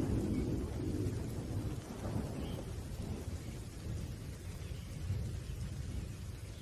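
Low thunder rumbling and slowly dying away, over a faint steady hiss of rain.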